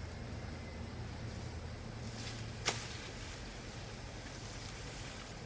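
Steady outdoor background noise with a single sharp click or knock about two and a half seconds in.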